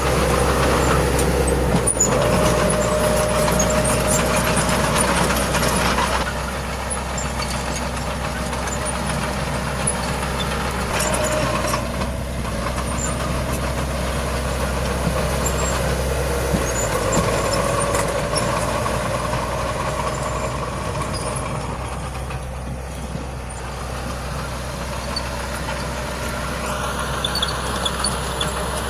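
Heavy diesel earthmoving machinery running steadily, a bulldozer or dump truck engine working under load. It is louder for the first six seconds, then eases off a little.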